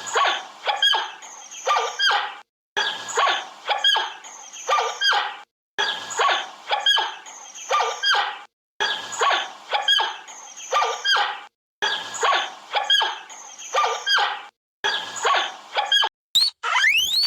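An animal's sharp, high calls, several to each short recording, with the same recording played about six times in a row with brief silent gaps between repeats.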